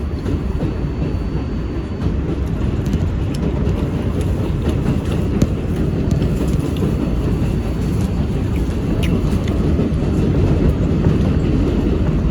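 R188 subway train running between stations with a steady, loud rumble of wheels on rail. Scattered sharp clicks are heard throughout.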